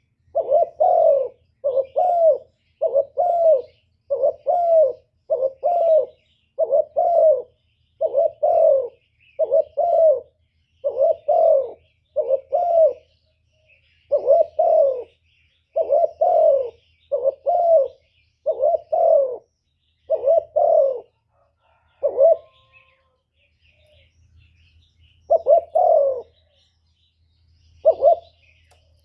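A decoy spotted dove cooing over and over, a steady run of low, rounded coos about a second apart, with a few seconds' pause near the end. Faint chirps of small birds sound behind it.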